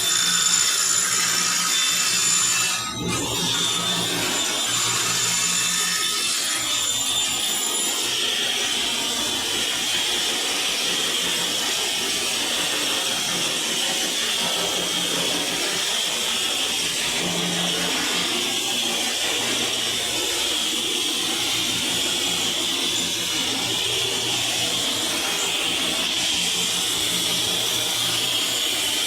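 Electric saw running and cutting through MDF board, a steady noisy whir with one short dip about three seconds in.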